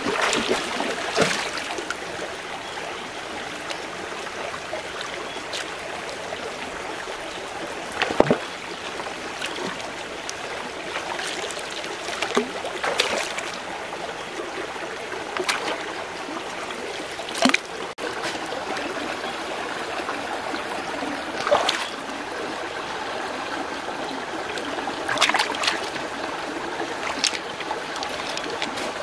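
Steady sound of running water, like a small stream, with occasional sharp clicks and knocks scattered through it.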